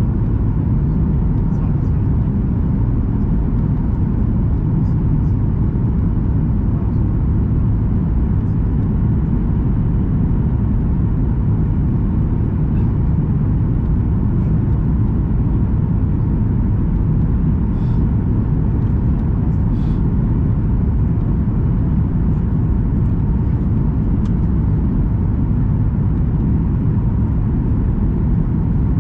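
Steady low cabin rumble of a Boeing 737 MAX 8 on approach: engine and airflow noise with a faint steady tone, and a couple of light clicks about two-thirds of the way through.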